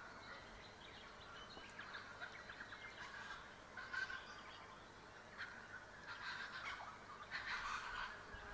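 Faint birds calling in several short spells, including a quick chattering run about two seconds in and a longer spell near the end.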